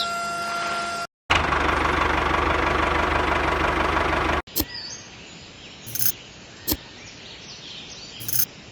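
A small engine running hard with a fast, even pulse for about three seconds, cut off abruptly. Then quieter outdoor background with birds chirping and a few short knocks.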